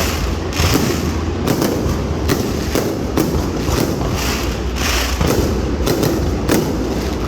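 Fireworks display going off in quick succession: a dense run of overlapping bangs and booms, several each second, with no pause.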